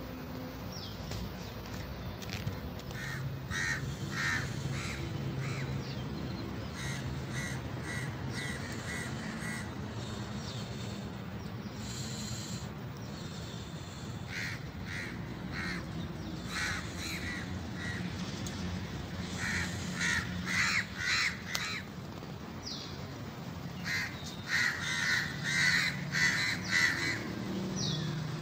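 Birds calling in repeated runs of short, evenly spaced calls, several runs in turn and the loudest in the last few seconds, over a low steady background rumble.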